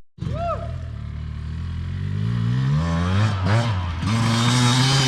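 Dirt bike engine running and accelerating, its pitch and loudness climbing over the first few seconds. There is a quick throttle blip about three and a half seconds in, after which it holds a higher, steady note.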